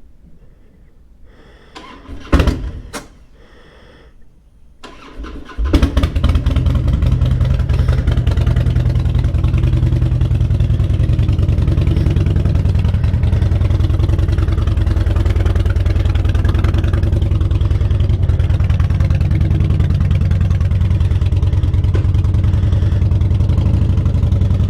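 Two sharp knocks, then a motorcycle engine is started about five and a half seconds in: a brief crank, and it catches. It then idles steadily and evenly.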